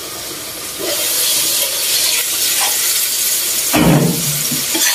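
Squash sautéing in oil in a wok, sizzling and hissing. About a second in, the sizzle grows louder as the lid comes off. Near the end a metal ladle knocks in the wok as the squash is stirred.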